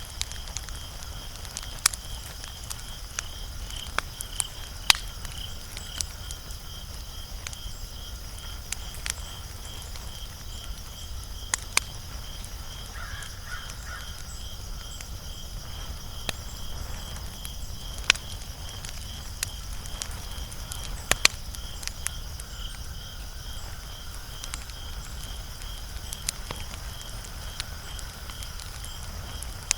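Wood fire crackling, with sharp pops scattered irregularly over a low steady rumble. A faint, evenly pulsing high chirp runs underneath.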